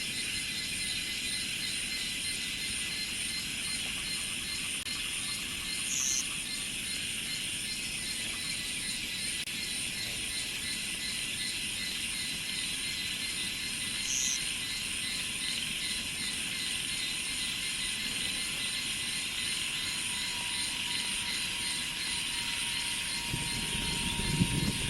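Steady chorus of insects trilling in a continuous, finely pulsing drone, with two brief high chirps, about six and fourteen seconds in. A low rumble starts to build near the end.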